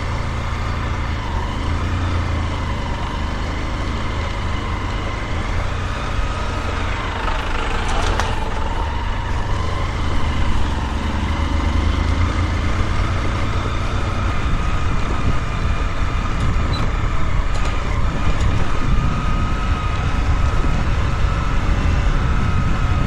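A motor vehicle's engine running while moving, over a steady low rumble. Its pitch drops about eight seconds in, then slowly climbs again.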